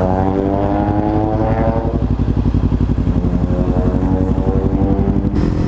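Kawasaki Ninja 300's parallel-twin engine running under way, its pitch rising gently for the first couple of seconds, then holding steady; near the end the note shifts lower.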